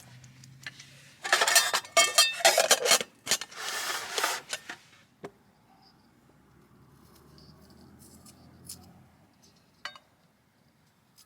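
Metal cookware and utensils clattering and clinking for a few seconds, followed by a few scattered light clicks.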